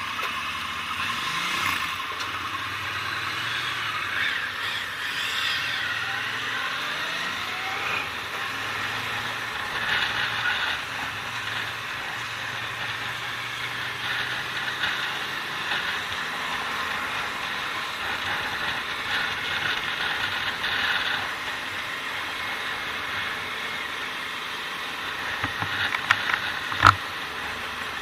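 Motorcycle running on the road: steady engine and road noise, with its pitch rising and falling in the first few seconds, and one sharp knock near the end.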